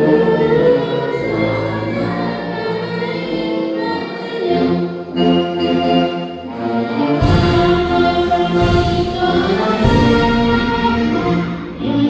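Music: a choir singing with orchestral accompaniment, in long held notes. A deep low rumble joins from about seven seconds in.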